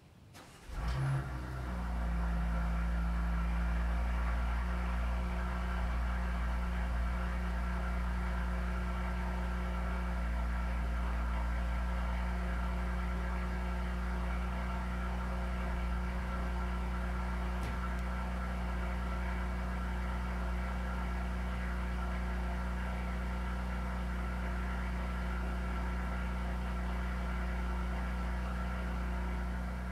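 Porsche Cayenne S's twin-turbo V6 starting about a second in, with a brief flare, then idling steadily through its stock exhaust.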